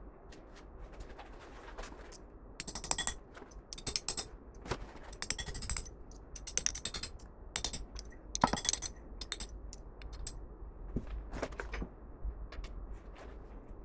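Small metal parts clinking and jingling as they are handled, a busy run of sharp metallic clicks and rattles through the middle, thinning out towards the end.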